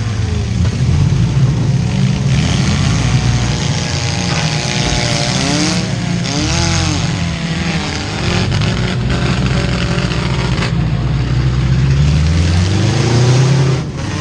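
Several four-cylinder demolition derby car engines revving hard, their pitch rising and falling in overlapping glides.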